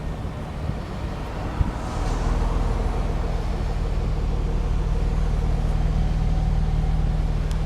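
2003 Chrysler 300M Special's 3.5-litre V6 idling steadily. It gets louder and deeper about two seconds in, just after a brief knock.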